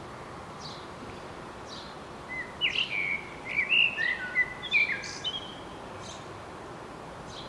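A songbird sings a short phrase of clear whistled notes that slide up and down, lasting about three seconds and starting about two seconds in. A fainter bird gives a thin high note about once a second throughout, over a steady background hiss.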